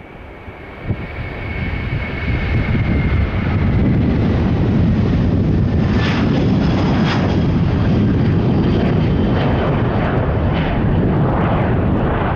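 Jet airliner taking off. Engine noise builds over the first few seconds, with a high fan whine that fades out, then settles into a steady loud rumble with crackling.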